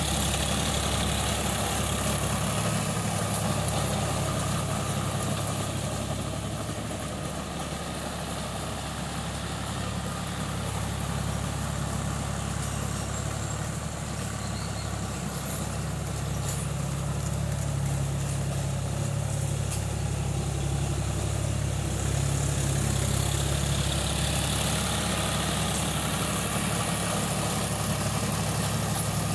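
Tractor engine running steadily, its level sagging a little for several seconds midway and then recovering.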